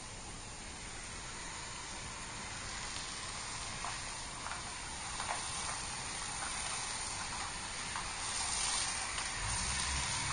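Hose-end foam spray nozzle spraying soapy water onto a car's body panels: a steady hiss of spray that grows a little louder near the end.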